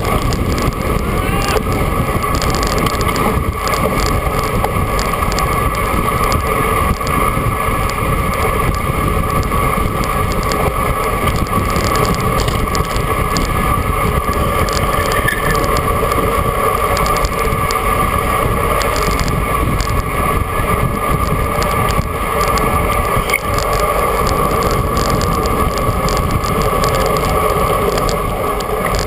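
Steady wind rush on an action camera's microphone, mixed with tyre noise from a bicycle being ridden, with a constant hum running through it.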